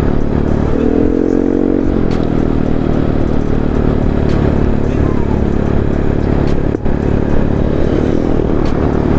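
Yamaha Mio i 125 scooter's single-cylinder engine running on the road with a 135cc fuel injector fitted. The engine note rises under throttle about a second in, holds briefly, then drops back to a steady running drone.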